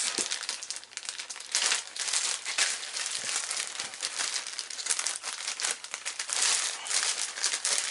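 Accessory bag crinkling and rustling as it is opened and rummaged through, in irregular crackles.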